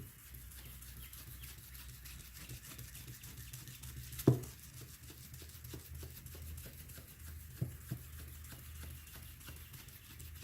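Hand rubbing on a plastic headlight lens, a run of quick, even back-and-forth strokes over a steady low hum. A sharp knock about four seconds in and two light clicks near eight seconds.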